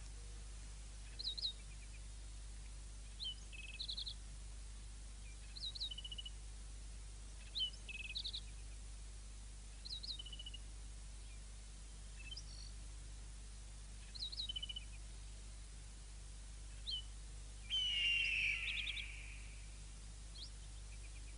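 A small bird singing a short, high chirping phrase over and over, about every two seconds, with a longer, louder call near the end, over a steady low hum.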